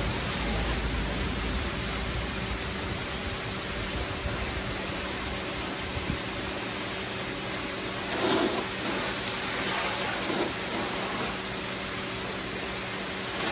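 VEVOR electric pressure washer spraying: a steady hiss of the water jet with the pump motor humming underneath, through the nozzle that gives a much stronger blast. The spray sound briefly gets louder about eight seconds in.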